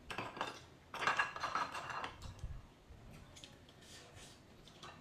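Dishes and eating utensils clinking and knocking at a meal, in short clusters of light clicks. They are busiest in the first two seconds, then thin out to a few faint clicks.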